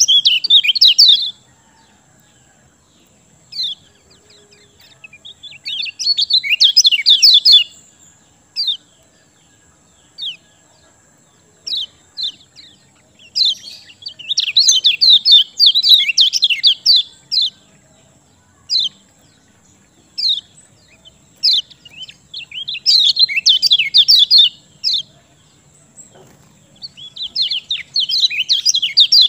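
Kecial kuning singing: bursts of fast, high chattering song lasting one to four seconds, about five in all, with single short chirps in between. It is a gacor lure song meant to set silent kept birds singing.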